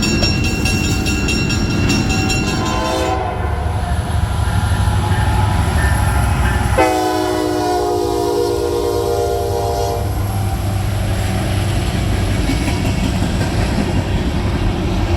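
Diesel freight locomotives running with a steady low rumble as the train moves, and an air horn sounding one long chord blast of about three seconds, starting about seven seconds in.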